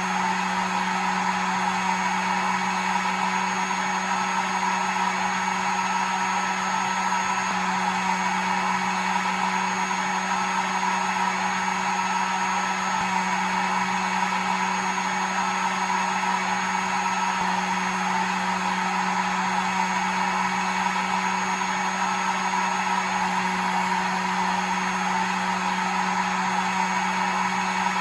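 Hair dryer running steadily: an even rush of blown air over a constant motor hum, unchanging throughout.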